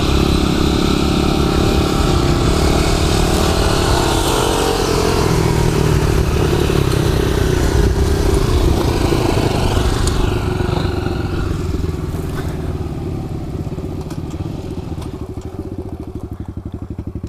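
Kawasaki KLX110 pit bike's small single-cylinder four-stroke engine running while riding, with wind and riding noise. Over the last few seconds the noise fades and the engine eases off to a slower, evenly pulsing beat.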